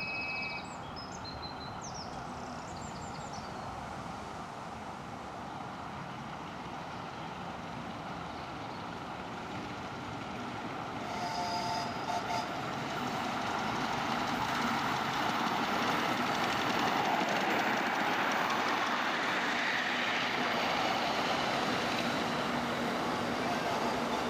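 A 7¼-inch gauge miniature train running along the track, its sound growing louder about halfway through as it draws near. Birds chirp briefly near the start.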